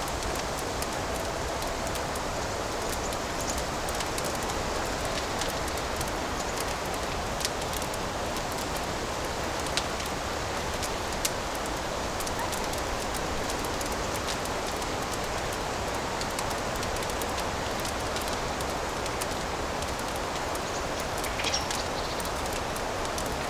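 Fireplace fire crackling: a steady hiss with scattered sharp pops, a few louder ones and a short cluster of pops near the end.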